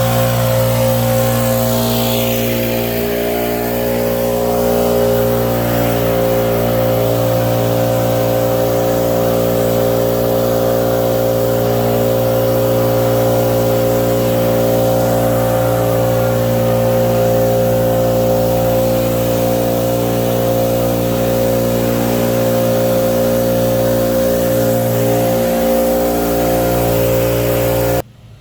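Small gasoline engine of lawn equipment running steadily at a constant high speed, then cut off abruptly near the end.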